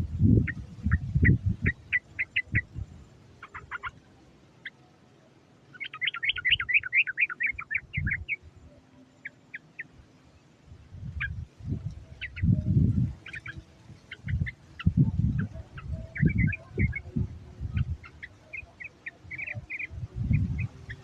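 Yellow-vented bulbul (trucuk) giving runs of quick, bright chirping calls, with a dense rapid run a few seconds in. Loud low thumps and rumbles come and go underneath.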